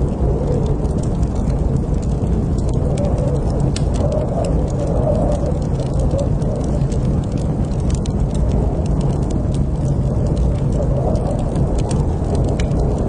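Wood fire crackling in a fireplace: many small, sharp pops and snaps scattered irregularly over a steady low rumble of burning.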